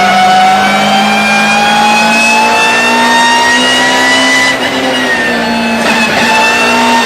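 BMW E36 race car accelerating hard through its straight-cut-gear gearbox, the pitch climbing in each gear and dropping sharply at upshifts about four and a half and six seconds in. A high whine from the straight-cut gears rises and falls with the engine.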